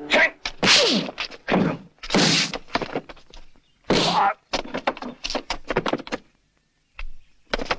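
A quick series of hard thuds and whacks with short clattering knocks, dubbed-in film impact effects; it drops out for a moment before two final knocks near the end.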